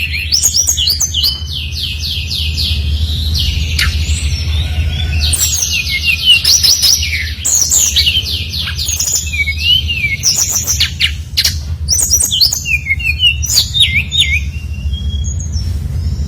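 Brown-chested jungle flycatcher (SRDC) singing hard: phrase after phrase of quick high notes, rapid trills and sliding whistles, with a steady low hum underneath.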